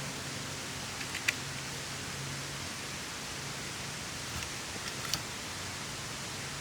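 Steady hiss of rain falling, with a few sharp ticks about a second in and again after five seconds.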